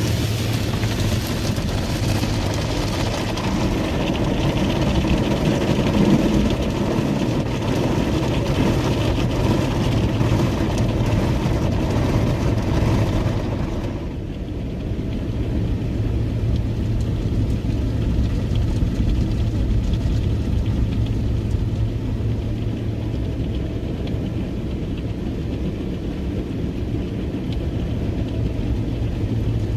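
Automatic car wash machine running: a loud, steady hiss of spraying and washing over a low hum. The hiss cuts off abruptly about halfway through, leaving the low steady hum.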